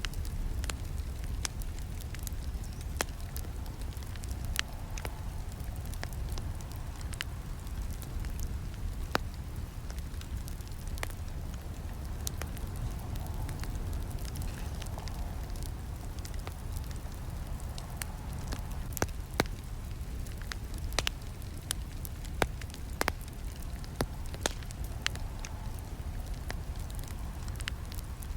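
Campfire burning: a steady low rumble of flames with frequent irregular sharp crackles and snaps from the burning wood.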